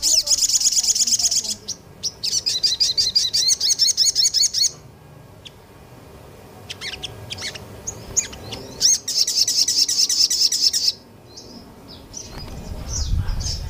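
Small songbird singing in three long bursts of very fast, high repeated notes, the rapid 'nembak' (shooting) phrases, with scattered single chirps between the bursts.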